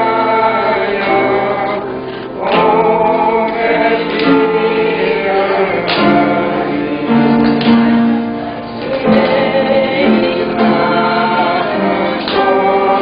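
Church choir singing a slow hymn in harmony, several voices holding long notes together.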